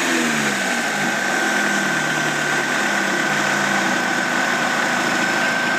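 Car engine with an exhaust leak, its revs falling back at the start and then idling steadily. A steady high whine runs alongside.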